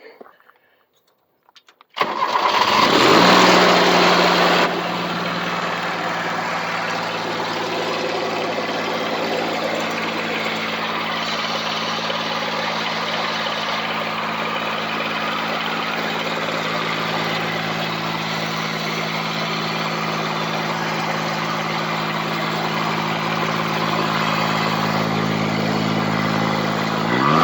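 Cub Cadet 1572 diesel garden tractor engine starting about two seconds in, running loud for a few seconds, then settling into a steady diesel idle.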